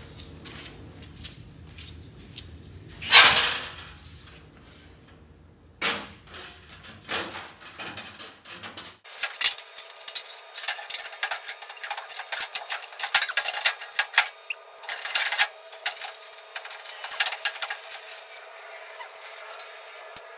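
Metal parts and hand tools clinking and clattering during work on a car body, with one loud knock about three seconds in and a dense run of light metallic clicks in the second half.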